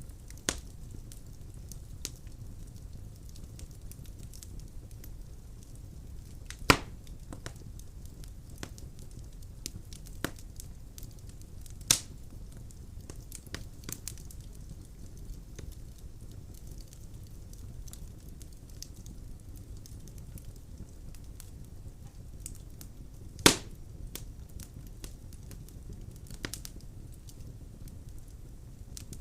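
Wood fire burning in a fireplace: a steady low rumble of flames with scattered crackles and a few loud sharp pops from the burning logs.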